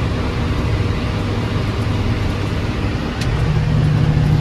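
John Deere 7420 tractor's six-cylinder diesel running under way, pulling a round baler. About three seconds in there is a click, then the engine note rises and gets a little louder as it picks up speed.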